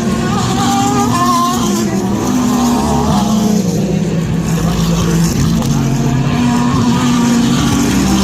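Several sports-prototype and GT race car engines running on track at once, making a loud, continuous din whose engine pitches shift as the cars accelerate and lift.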